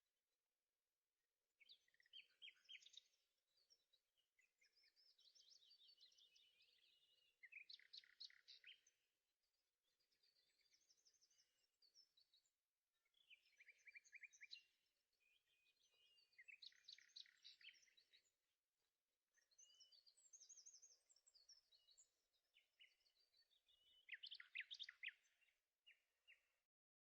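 Faint birdsong: repeated short chirping and trilling phrases, with brief pauses between them.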